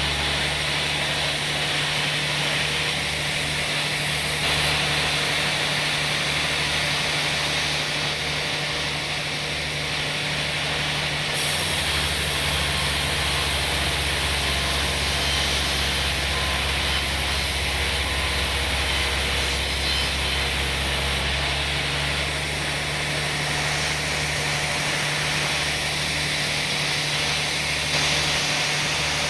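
Sawmill machinery running steadily: a low engine-like drone with a constant hiss above it, typical of a saw cutting through a teak log.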